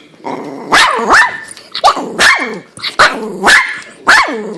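A dog sneezing in a rapid fit: four sneezes about a second apart. Each one is a sharp burst that trails into a short, steeply falling tone.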